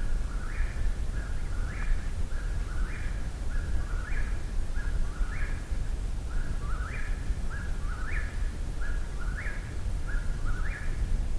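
Eastern whip-poor-will singing close by, repeating its rising phrase about once every 1.2 seconds, over a low steady rumble.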